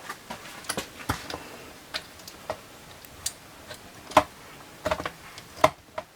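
Chainsaw chain being fitted by hand onto the bar: irregular metal clicks and clinks of the chain links against the bar and sprocket, the loudest a little past four seconds in and again near the end.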